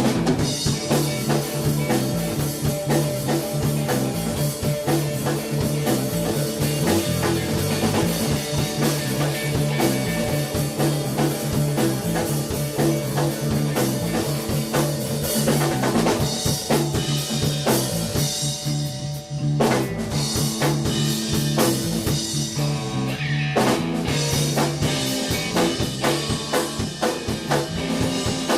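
A rock band playing, with drum kit, bass and guitar. The drums keep up a busy beat with rimshots over a stepping bass line, and there is a brief break about two-thirds of the way through before the band comes back in.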